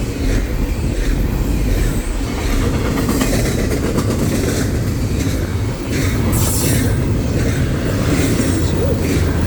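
Train rolling past close by: a steady heavy rumble of railcar wheels on the rails, with a brief high hiss about six seconds in.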